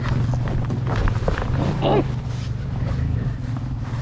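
Dirt bike engine running at a steady speed, with scattered knocks.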